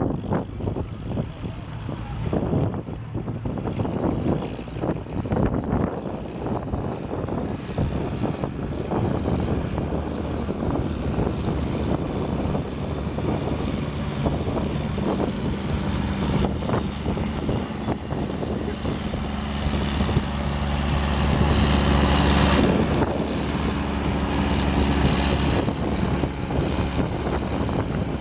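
Antique farm tractor engine running hard under load in a pull, a steady engine drone that grows louder about three-quarters of the way through.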